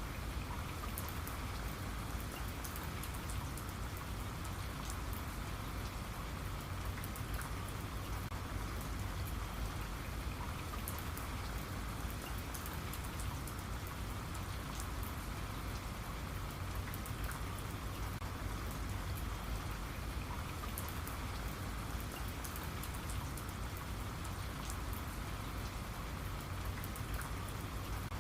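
Steady rainfall, an even hiss of rain with many small drop ticks landing on a surface.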